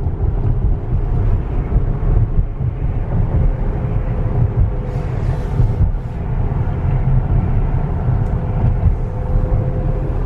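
Steady road and tyre noise inside the cabin of a moving Tesla Model X electric SUV: a low rumble with a faint steady hum over it and no engine sound.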